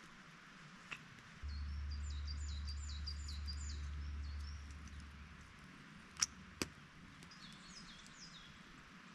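A small songbird sings a fast phrase of repeated high notes, then sings it again later. Under the first phrase runs a low steady rumble that starts abruptly and fades after a few seconds. Two sharp knocks about half a second apart come a little after the middle and are the loudest sounds.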